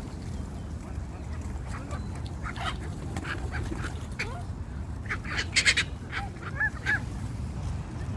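A flock of birds crowding round to be fed, giving short, sharp calls in a cluster through the middle, over a steady low rumble.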